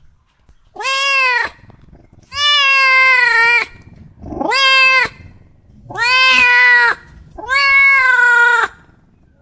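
A domestic cat meowing five times in a row, each a drawn-out meow of about a second with short pauses between.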